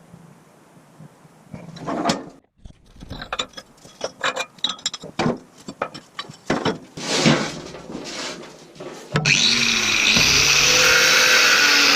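A run of irregular knocks and scrapes, then about nine seconds in a power tool starts suddenly and runs loudly and steadily, its pitch wavering.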